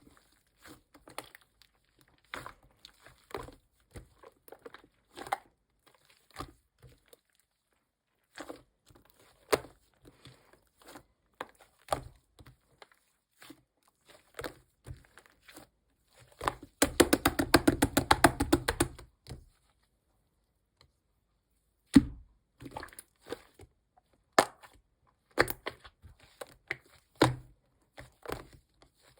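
Slime being squished, stretched and folded by hand, giving irregular sticky pops and crackles. Slightly past the middle there is a dense two-second run of rapid popping clicks.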